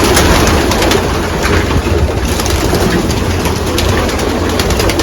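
Many racing pigeons in a loft cooing, with wings fluttering and scuffling as the flock is disturbed for a bird to be caught. A steady low hum runs underneath.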